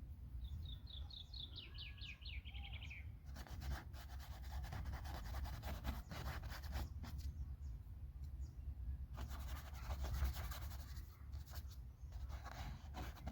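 A bird sings a short falling trill of quick chirps near the start. Then a paintbrush scrubs and dabs on the painting surface in quick scratchy strokes for the rest of the time.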